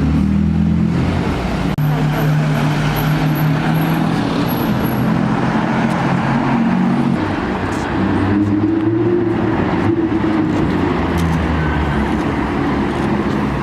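Sports car engine running in street traffic, with its pitch climbing and then easing off about eight seconds in as it accelerates.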